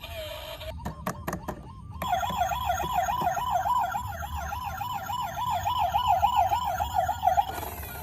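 Electronic toy siren wailing rapidly up and down, about two to three times a second. It starts after a few clicks, about two seconds in, and stops shortly before the end.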